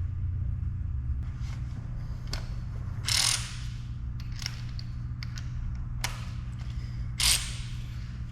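Hand ratchet wrench tightening nuts, with scattered clicks and two short bursts of ratcheting about three and seven seconds in, over a steady low hum.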